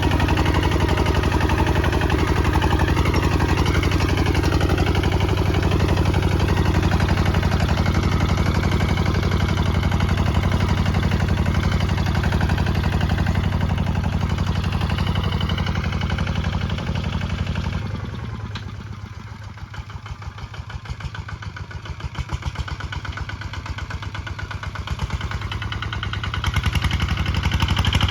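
Kubota ZT155 DI walking tractor's single-cylinder diesel engine running steadily with a rapid even chugging. It drops noticeably quieter for several seconds past the middle, then comes back up near the end.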